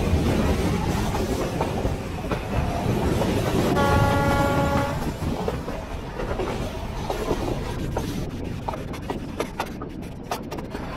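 Nilgiri Mountain Railway metre-gauge train running, heard from a coach window: a steady rumble and clatter of wheels on the rails. The locomotive's horn sounds once for about a second, around four seconds in, and sharper wheel clicks come through near the end.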